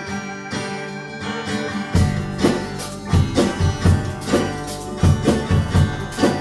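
Live band playing an instrumental song intro: guitar strumming alone, then about two seconds in the full band comes in with drum beats keeping a steady rhythm.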